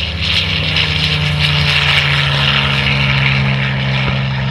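Sukhoi Su-31 aerobatic plane flying past, its M-14 radial engine and propeller giving a loud, steady drone.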